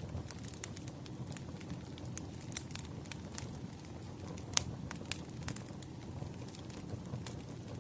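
Wood fire burning: a steady low rumble with irregular sharp crackles and pops, the loudest pop about four and a half seconds in.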